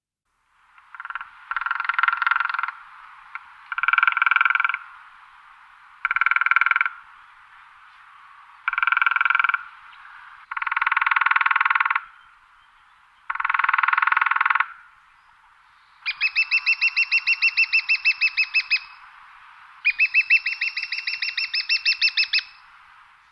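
Woodpecker drumming: rapid rolls of beak strikes on wood, eight rolls in all, one about every two seconds. The first six are short, about a second each, with a pitched ring; the last two run about three seconds each, with the single strikes heard distinctly.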